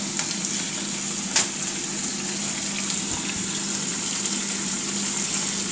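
Szechuan pork chop and vegetable stir fry sizzling steadily in a skillet as its sauce cooks down to a glaze, under a steady low hum, with one light click about a second and a half in.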